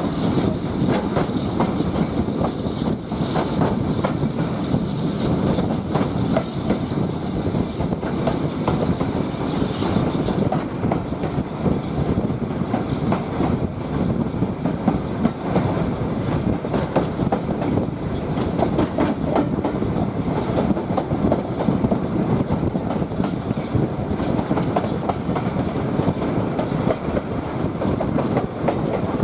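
Steam-hauled passenger train heard from aboard a carriage: wheels rumbling steadily on the rails with a continuous clickety-clack over the track.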